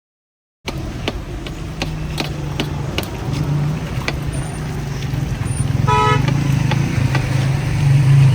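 Silence, then a vehicle engine running with a steady low hum from about half a second in, with scattered sharp ticks. A car horn gives a short toot about six seconds in.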